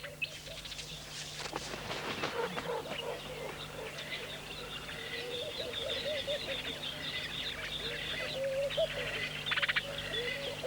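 Wild birds calling: many short high chirps and twitters over a lower wavering call, with a quick rattling trill near the end.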